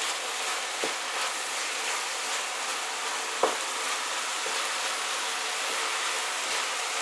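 Diced chicken and vegetables sizzling steadily as they fry in a stainless steel frying pan while being stirred with a wooden spatula. The spatula knocks against the pan about a second in and again, louder, about three and a half seconds in.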